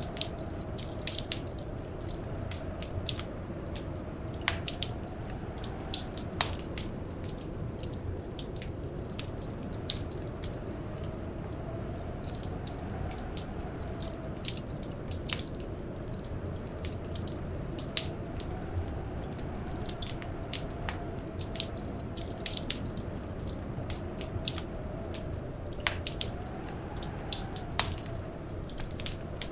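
Wood fire crackling in a fireplace: irregular sharp pops and snaps over a steady low rumble. A faint, slowly wavering howl of blizzard wind runs beneath it.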